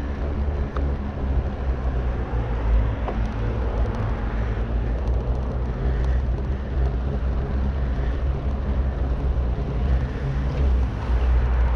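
Steady low rumble of wind on the microphone mixed with road traffic noise.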